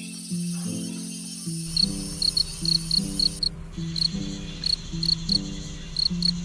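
Insect chirping in short, high, rapid pulses, setting in about two seconds in, over background music with a repeating low melody.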